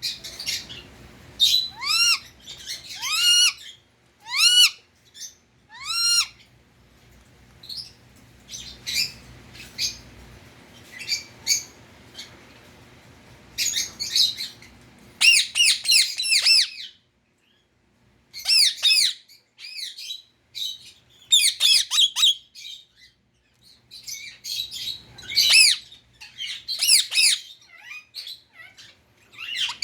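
Indian ring-necked parakeet calling: repeated short, shrill squawks and chirps, some swooping in pitch, coming in bursts with brief pauses between them.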